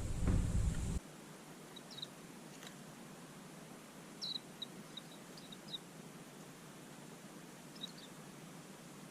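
A few short, high chirps from small garden songbirds: one pair about two seconds in, a run of five or six in the middle, and one more near the end. Before them, a loud low rumble cuts off abruptly about a second in.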